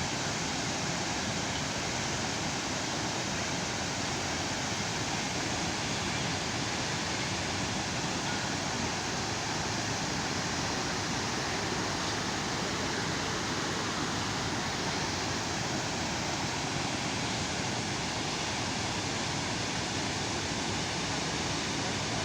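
Steady roar of Chitrakote Waterfall's water pouring over the falls.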